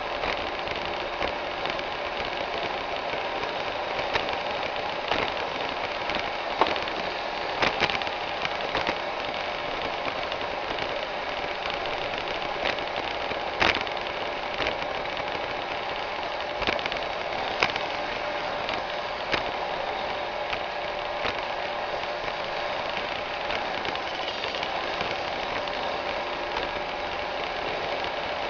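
iRobot Roomba 610 robot vacuum running, a steady motor and brush whir with scattered sharp clicks.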